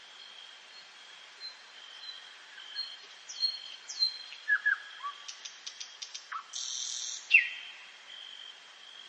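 Several wild birds calling and singing in a dawn chorus. Short chirps and clicks cluster in the middle, and a loud call slides down in pitch about seven seconds in, over a faint, steady, high trill that carries on behind.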